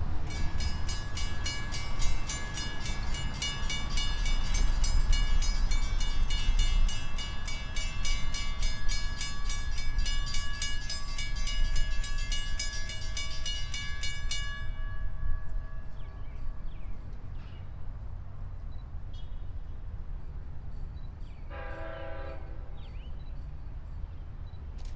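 An LIRR DM30AC dual-mode diesel locomotive hauling its train over a grade crossing, a low rumble, while the crossing bells ring rapidly and steadily. The bells stop about fourteen seconds in and the train's rumble fades. A short horn blast of about a second comes near the end.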